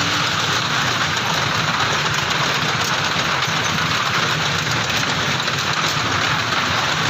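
A train running: a steady rumbling, hissing noise that holds even throughout.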